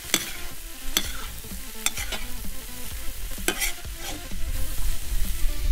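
Sliced onions sizzling in hot oil in a cast-iron kazan, stirred with a metal slotted spoon that scrapes and clinks against the pot several times.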